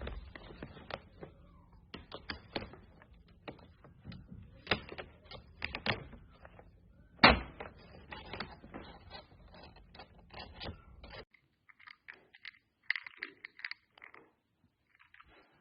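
Irregular clicks and knocks, with one loud thump about seven seconds in.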